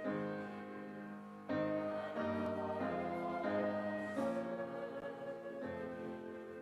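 Slow, quiet piano music: sustained chords, a new chord struck every second or so, each fading before the next.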